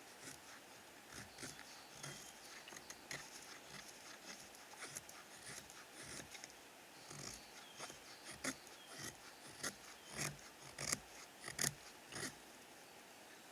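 Irregular sharp wooden snaps and crackles mixed with short scraping sounds, growing louder and more frequent about eight seconds in.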